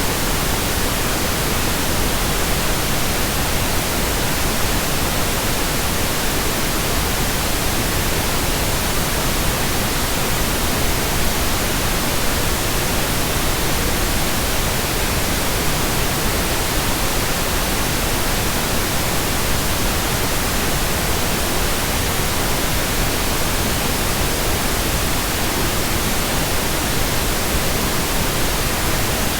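Steady pink noise: an even, unchanging hiss spread across the whole range from deep to high.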